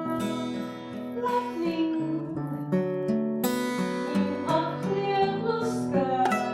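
Acoustic guitar strummed and picked in a song, with some singing.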